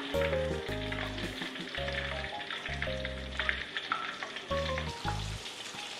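Steady sizzling, crackling hiss of food cooking in a pan on a gas stove, with small ticks as diced vegetables are tipped into it. Background music with a plucked bass line plays under it and stops about five seconds in.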